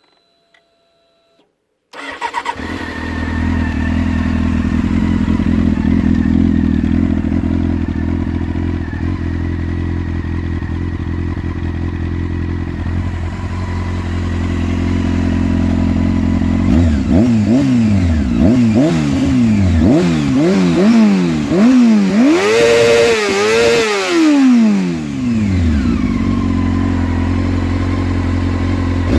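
Honda CBR600 F4i's inline-four engine starting about two seconds in and idling steadily. Later it is revved in a series of throttle blips, the highest near the end, and then settles back to idle.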